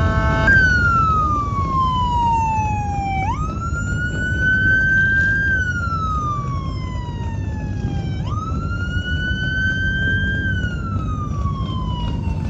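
Police siren wailing in a slow rise-and-fall cycle that repeats about every five seconds, over a steady low rumble.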